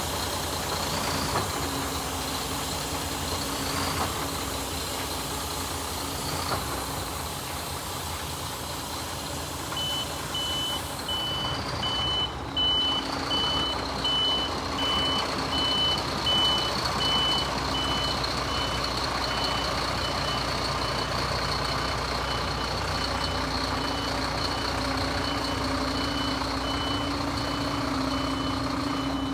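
Scania G360 truck's diesel engine running, with its reversing alarm beeping steadily at a little over one beep a second from about a third of the way in.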